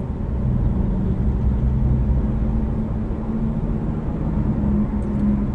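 Steady road and engine noise of a car being driven, heard from inside the cabin: an even low drone with a steady hum.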